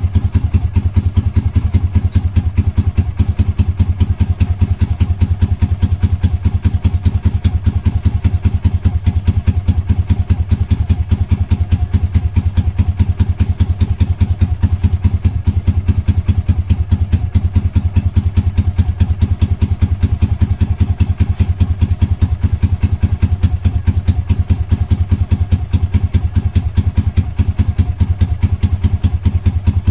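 Honda GB250's air-cooled single-cylinder four-stroke engine running steadily at idle with an even beat of exhaust pulses, on its first run after sitting unused for a long time.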